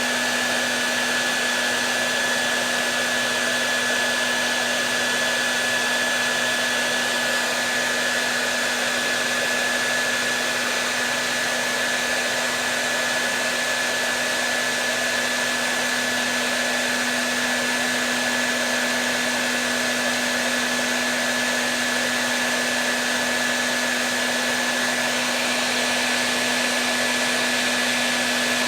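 Hair dryer running steadily: an even blowing hiss with a constant low motor hum and a thin high whine, unchanging, played as soothing noise to calm a baby.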